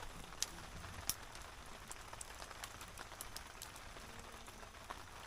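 Steady rain falling, an even hiss with scattered sharp ticks, the clearest about half a second and about a second in.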